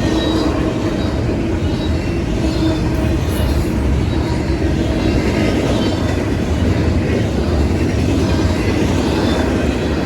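A train rolling past close by: a loud, steady rumble of wheels on rails.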